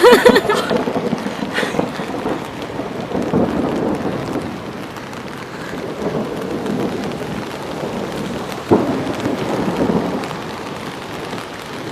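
Steady rain falling during a thunderstorm, with low rumbles of thunder swelling and fading. There is a sudden sharp crack about nine seconds in.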